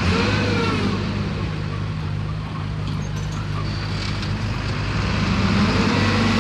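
Diesel engine of heavy earthmoving machinery running steadily under load, a deep continuous drone that grows slightly louder toward the end.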